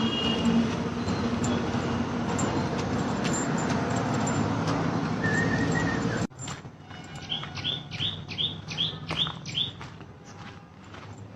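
A loud, steady noisy rush for about six seconds that stops abruptly. After it, a bird calls a quick run of about seven short rising chirps, about three a second.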